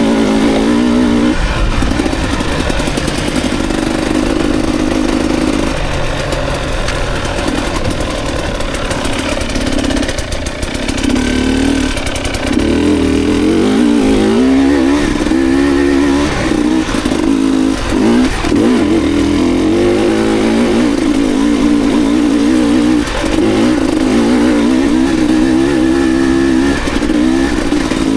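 Dirt bike engine running under load and revving up and down as it is ridden over rough ground, easing off briefly about ten seconds in.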